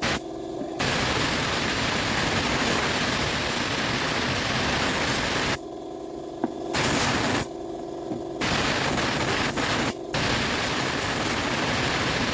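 Loud, steady hissing of a pressurized spray, starting under a second in and running in several long blasts with short breaks between them.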